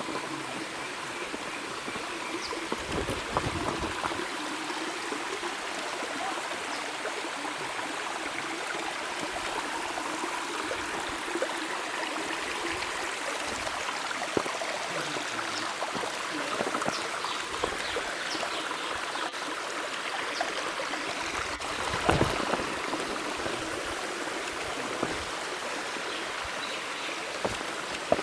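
Waterfall spilling into a rock pool: a steady rush of falling water, with a couple of brief low bumps, the louder one about two-thirds of the way through.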